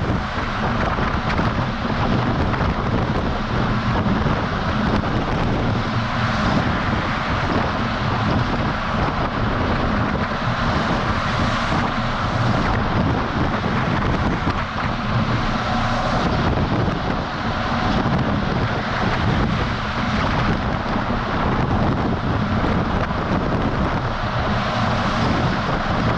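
DAF XF semi-truck driving at speed, heard from a camera mounted on the outside of the cab: steady wind rush over the microphone and road noise over the low, even drone of the engine.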